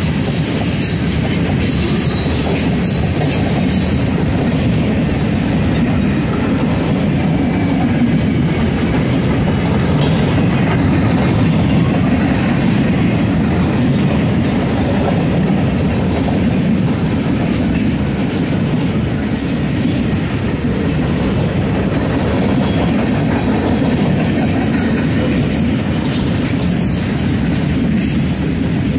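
Freight train's tank cars and boxcars rolling past, a steady loud rumble with wheel clatter at the start and again near the end.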